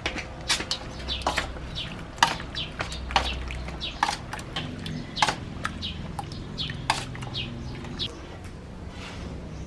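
Birds chirping: a string of short, quick, downward-sweeping chirps at irregular intervals, over a low steady background hum.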